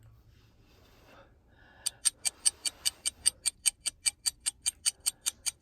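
Rapid, even ticking, about five ticks a second, starting about two seconds in just after a brief faint tone.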